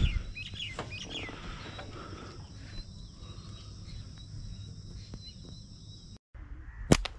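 Steady high-pitched insect drone in open country, with a few short bird chirps in the first second or so. Near the end comes a single sharp snap.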